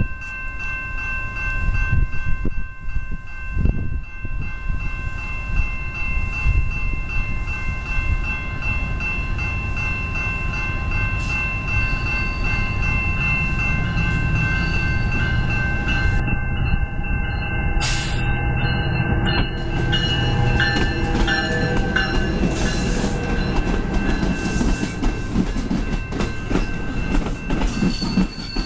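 Commuter train rolling past: a steady low rumble of wheels on rails, with several steady high tones held through most of it that fade out after about twenty seconds.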